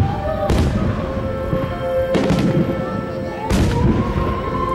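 Aerial firework shells bursting: three loud booms about a second and a half apart, over a song with held notes.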